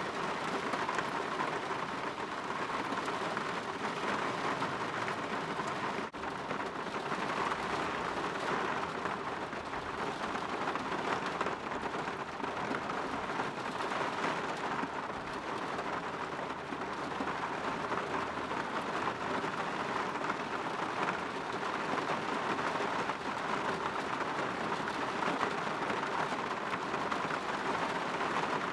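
Steady rain falling on a window, an even patter with no pauses, briefly dipping for an instant about six seconds in.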